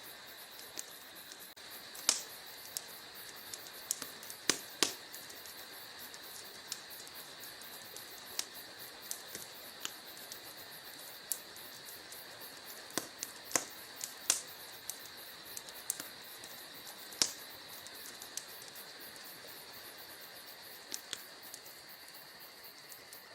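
Wood fire in a fireplace crackling: irregular sharp pops and clicks over a steady faint hiss, with a few louder pops scattered through.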